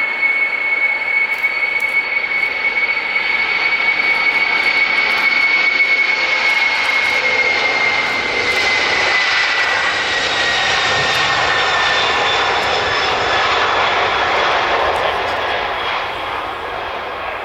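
Boeing 747-400's four jet engines at takeoff power as the jet passes. A high whine drops slightly in pitch partway through, while the roar swells and then fades near the end.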